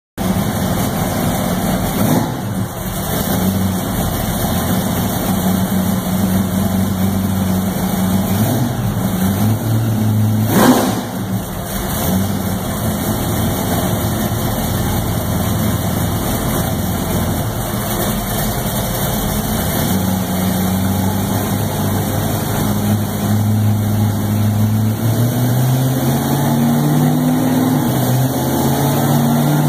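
Supercharged big-block V8 of a first-generation Chevrolet Camaro running on a chassis dyno, mostly at a steady idle with one brief sharp blip near the middle. Over the last several seconds the engine pitch climbs steadily as the car starts to speed up on the rollers.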